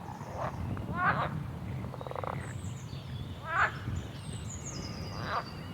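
Four loud, short, rippling animal calls, about one every one and a half seconds, with a brief buzzy rattle about two seconds in and faint high thin whistles over a steady low rumble.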